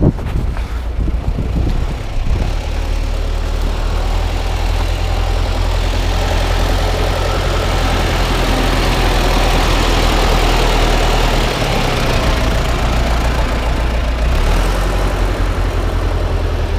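Tractor engine running steadily with a low drone and a rattling, noisy haze above it; the engine note shifts slightly twice in the second half.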